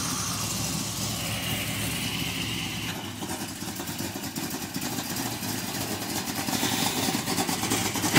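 350 small-block Chevrolet V8 with Vortec heads, mounted up front in a VW Beetle, idling steadily. It grows louder over the last couple of seconds.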